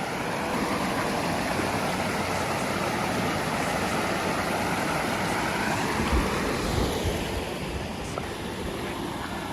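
Steady rush of flowing water, as from a garden stream or small waterfall.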